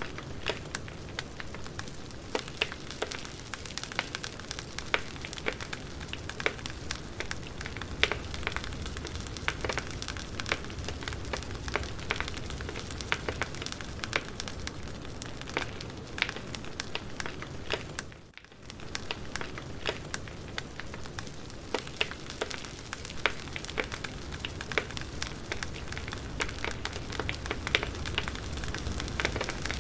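Campfire crackling, with many sharp pops and snaps over a steady hiss; the sound drops away for a moment about two-thirds of the way through.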